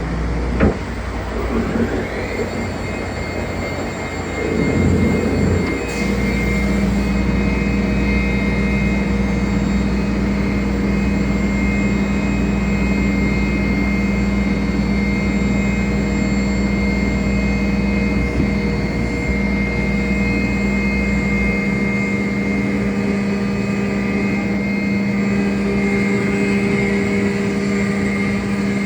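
CNC router spindle spinning up with a rising whine and then running at a steady high pitch, joined about six seconds in by a steady lower machine hum.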